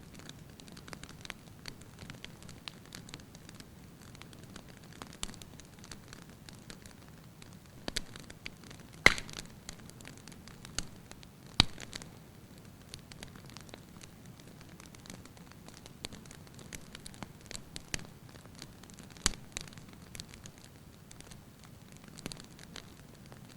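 Wood fire burning in a fireplace: a steady soft hiss with frequent irregular crackles of the logs and a few louder sharp pops, the loudest about nine and eleven and a half seconds in.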